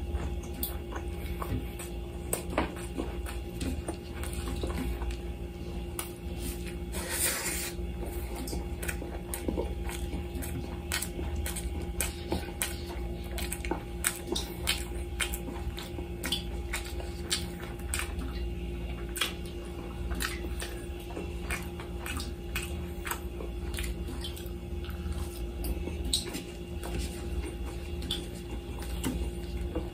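Mukbang-style close eating sounds: a person chewing grilled lamb chops and rice, with many small wet mouth clicks and smacks. A steady low hum runs underneath, and there is a brief rustle about seven seconds in.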